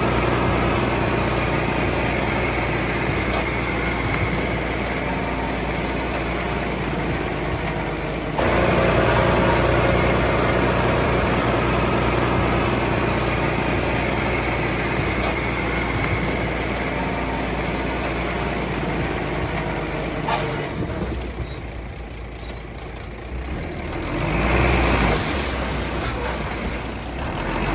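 Heavy diesel engine running steadily. It steps up louder about eight seconds in and drops off after about twenty seconds, then swells briefly again near the end.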